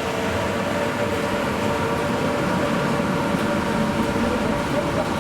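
Train running through a station without stopping: a steady running noise with a held hum.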